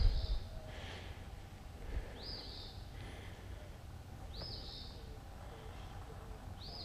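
A songbird repeats a short high phrase that rises and levels off, about every two seconds, four times, each followed by a fainter lower note. A low thump near the start is the loudest sound.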